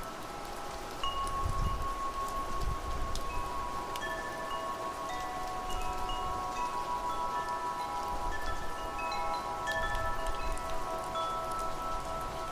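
Wind chimes ringing at random, their struck notes overlapping and ringing on, over a steady hiss of rain. Low gusts of wind rumble now and then.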